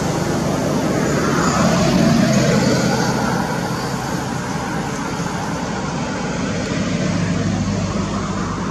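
Steady road-traffic noise with a low engine hum, swelling about two seconds in and again near the end.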